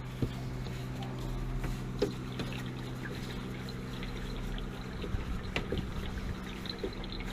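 Water trickling as the old water heater tank is drained, over a steady hum that cuts out about five seconds in, with a few light knocks.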